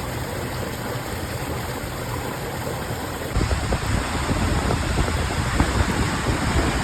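Rushing water from a swollen stream, a steady rush. About three seconds in, it grows louder, with a low rumbling added.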